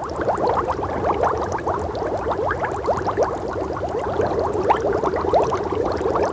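Bubbling sound effect: a dense stream of quick, overlapping rising blips, like water bubbling.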